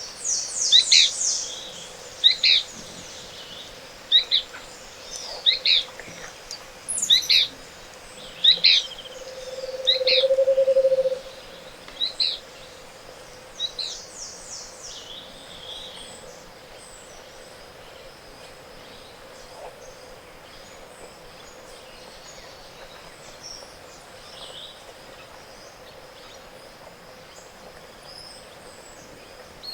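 Tropical forest dawn bird chorus: one bird repeats a short, sharp downslurred call about a dozen times over the first twelve seconds, with fast high trills twice, and a low rolling hoot series about ten seconds in is the loudest sound. The second half is quieter, with scattered distant calls over a thin steady high tone.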